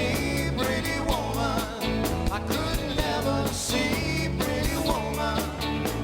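Live rock and roll band playing: drums keeping a steady beat under a bass line, with a bending melodic lead over the top.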